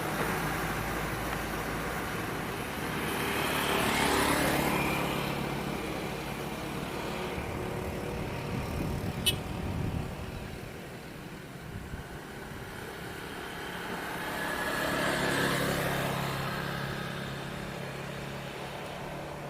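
Motor vehicles driving past, their engines growing louder and then fading, twice. There is a sharp click about nine seconds in.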